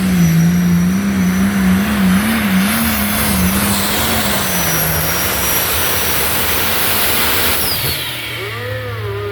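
Pulling tractor's engine running hard down the track, its note wavering up and down, then dropping to a lower, steadier note about eight seconds in.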